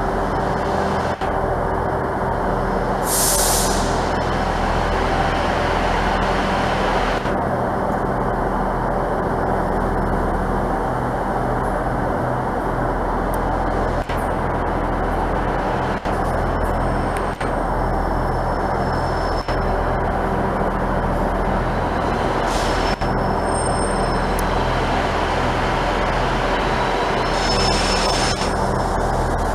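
A stationary train running its engine with a steady drone, with short hisses of compressed air from the brake system about three seconds in and twice more near the end.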